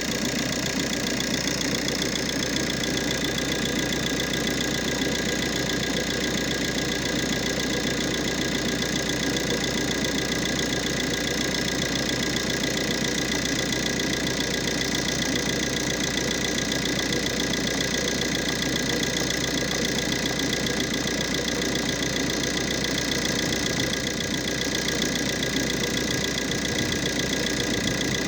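Engine idling steadily with an even pulsing, and a steady high-pitched whine alongside it.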